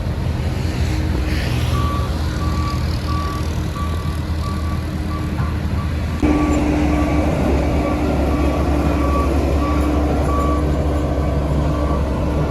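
Diesel engine of heavy road-construction machinery running steadily, with a reversing alarm beeping about one and a half times a second: a machine backing up. About halfway through, the engine sound jumps abruptly louder.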